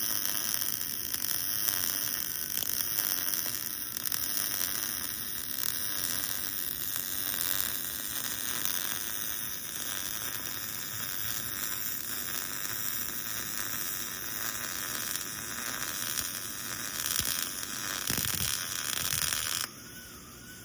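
Welding arc sizzling and crackling steadily while a bead is laid on a uni-ball cup, then cutting off abruptly near the end.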